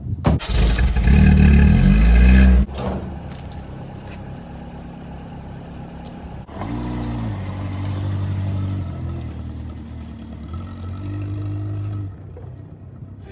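Car engine revving hard for about two and a half seconds, then cutting off abruptly. Then engine sounds at a lower level, rising in pitch again about six and a half seconds in and running on steadily.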